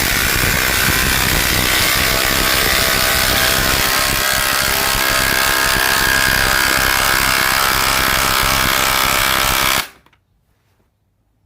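Two Ryobi cordless impact drivers, a brushless PBLID02 and a P238, hammering 5-inch, 3/8-inch lag screws into wood at the same time. The rapid impacting runs steadily for about ten seconds and cuts off suddenly near the end.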